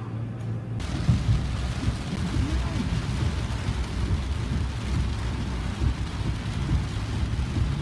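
Heavy rain beating on a moving car's roof and windshield: a dense steady hiss over low road rumble, starting suddenly just under a second in.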